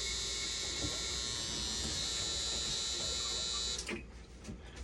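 Dialysis machine under repair, powered on: a steady high-pitched electrical whine over a low mains hum that cuts off with a click almost four seconds in, as the machine is switched off.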